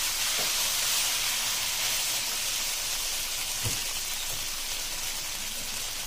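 Spaghetti and vegetables sizzling in hot oil in a nonstick pan, a steady frying hiss that slowly fades, with one short knock of the nylon spatula about three and a half seconds in.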